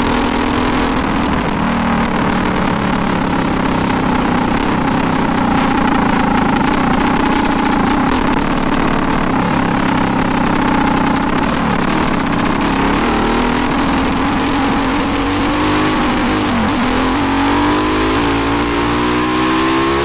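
400cc motorcycle engine running loud and steady, then revving up with a rising pitch over the last few seconds.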